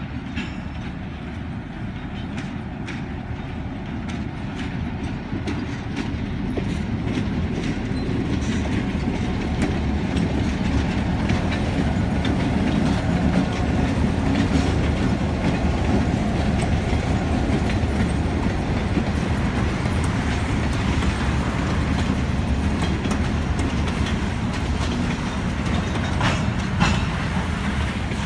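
A local freight train rolling past, a heavy rumble with the wheels clicking over the rail joints. It grows louder over the first twelve seconds or so, then holds steady.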